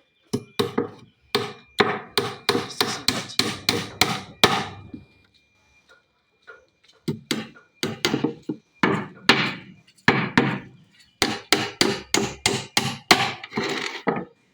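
Hammer driving nails into timber formwork boards: three runs of quick blows, about three a second, with short pauses between them.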